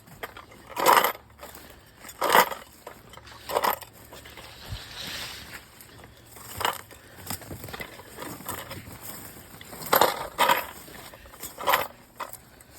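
Footsteps crunching on the forest floor of a woodland trail, one step every second or so, irregular.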